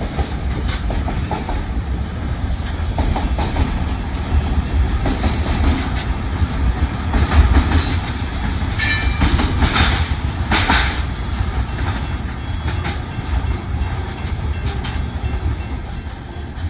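Train cars rolling past at close range: a steady low rumble with wheels clacking over the rail joints. Short high-pitched wheel squeals come about halfway through.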